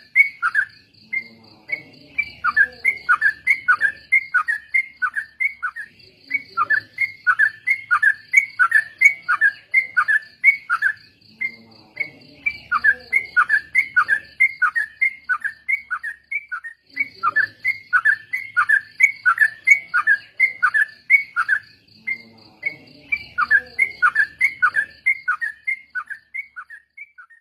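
A group of yellow-vented bulbuls chattering in long runs of quick, falling notes, several a second, with brief gaps between the runs. A steady, fast-pulsing high tone carries on behind them.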